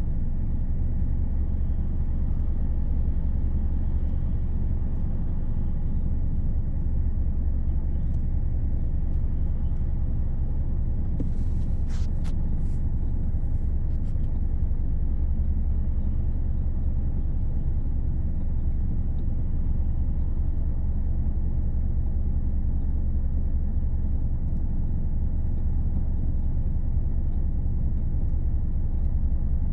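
Steady low rumble from a 2016 Hyundai Elantra: the strange noise heard coming from its front vents or from under the hood. A few sharp clicks sound about twelve seconds in.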